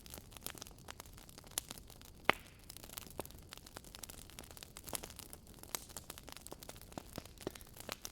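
Firewood burning in a fireplace: a soft hiss with irregular crackles and pops, one sharper pop about two seconds in.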